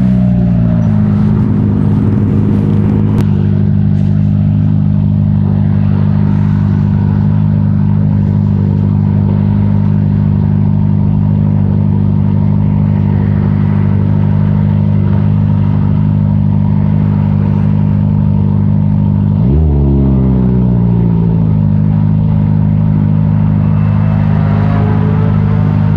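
Kawasaki ZX-25R's 249 cc inline-four running through an Arrow titanium full-system exhaust. The revs fall back from a rev just at the start and then hold steady. About twenty seconds in there is one quick throttle blip, with the revs sweeping up and dropping back over a couple of seconds.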